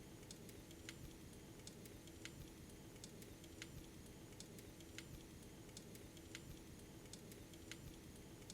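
Faint fireplace crackling: sharp, irregular pops about one or two a second over a steady low hum.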